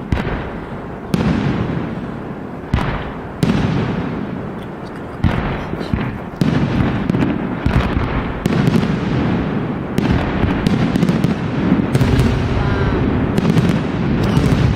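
Fireworks display: loud bangs one after another, each followed by a fading rumble. From about five seconds in the bursts come almost without a break.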